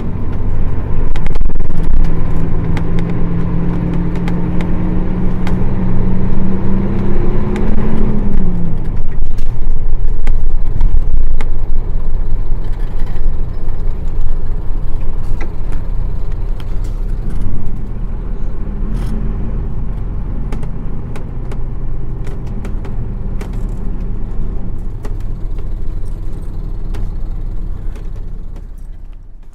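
Bus running under its Nissan Diesel PF6 diesel engine: the engine note climbs slightly under power, then drops away about eight seconds in as the throttle comes off, and the bus runs on more quietly with small rattles. The sound fades out near the end.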